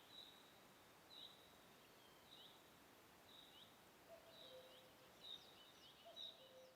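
Faint birds chirping: short repeated chirps, about one to two a second, coming thicker in the second half, with a few brief lower notes.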